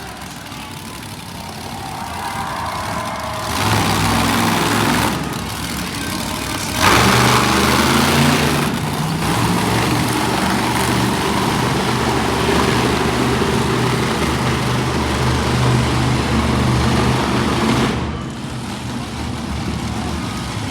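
Monster truck engine revving hard: a short burst about three and a half seconds in, then a long, loud run from about seven seconds that cuts off sharply near the end.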